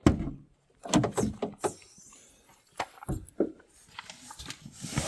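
Knocks and clunks of gear and fittings being shifted around inside the back of an SUV while a bed is made up, with a stretch of rustling near the end.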